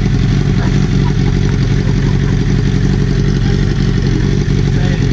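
Motorcycle with its exhaust slip-on removed (straight-piped), its engine running loudly and steadily with no revving.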